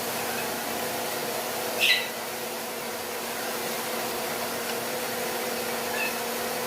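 Steady mechanical hum and hiss from a running appliance. About two seconds in, the parrot gives one short, high chirp that drops in pitch.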